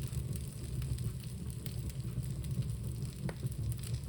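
A wax doll burning in a home fireplace, flaring up: a steady low rush of flame with scattered crackles.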